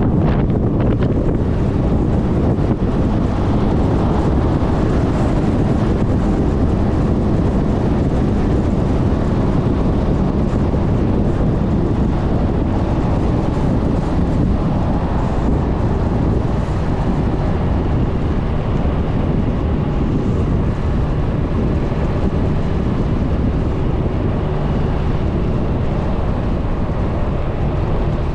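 Steady wind rumble on the microphone of a riding scooter, with the Suzuki Burgman 400's engine and road noise underneath.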